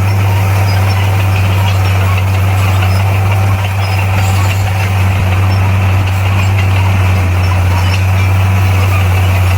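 Bulldozer's diesel engine running with a steady low drone.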